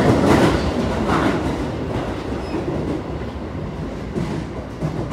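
Running noise inside a Keio 8000 series commuter train car: the rumble of wheels on rail, slowly getting quieter as the train slows on the approach to a station. A few clacks of wheels over rail joints come near the end.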